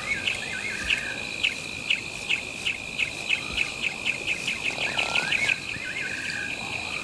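Savanna wildlife ambience. A steady high insect trill runs under short repeated chirps that speed up from about two to about four a second. A bird's warbling whistled phrase comes near the start and again about five seconds in.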